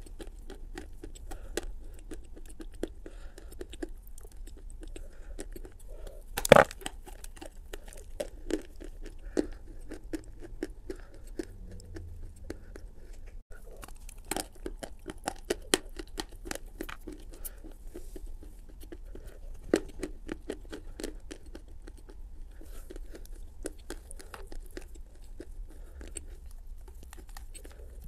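A person biting and chewing a piece of Turkestan edible clay: a steady run of small crunching clicks, with one much louder crack about six and a half seconds in.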